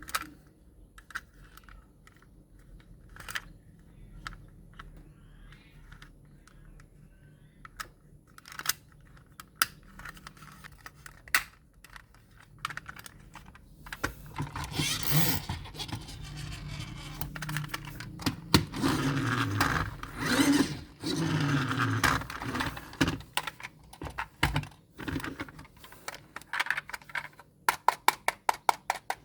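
Plastic toys and packaging being handled: scattered clicks and taps, a longer stretch of rustling and scraping in the middle, then a quick, even run of clicks near the end.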